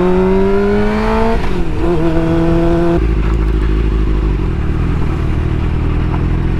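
Suzuki GSX-R600 inline-four motorcycle engine rising in pitch under throttle, then dropping about a second and a half in as the bike slows. It settles to a lower, steady running sound from about three seconds in.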